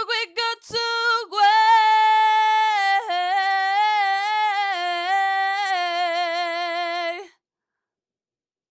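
Solo female voice singing without accompaniment: a few short notes, then one long held note that steps down in pitch twice and cuts off about seven seconds in.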